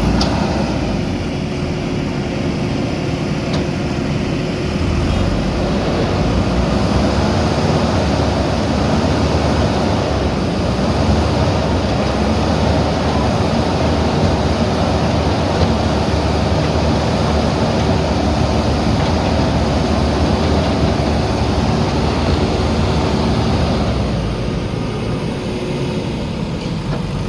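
JCB backhoe loader's diesel engine running hard, a dense steady drone. It grows louder about five seconds in and eases off near the end.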